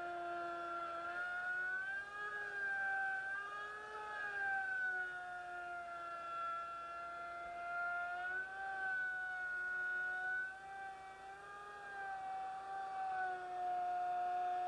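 Electric wood router running with a steady high whine, its pitch rising and dipping slightly every few seconds as it cuts.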